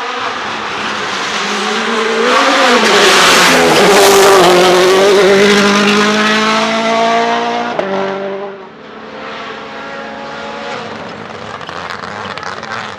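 Rally car engine at full throttle, revving up through the gears, with the pitch climbing and loudest in the middle as the car passes close. Near the end it drops off sharply to a fainter engine sound.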